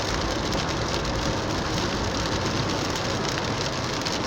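Heavy rain pattering steadily on a moving car, mixed with tyre and road noise.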